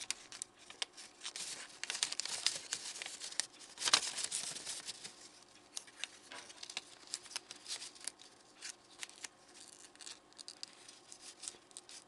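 Paper being bent and folded by hand: quick rustles and crinkles of a sheet of paper, loudest about four seconds in.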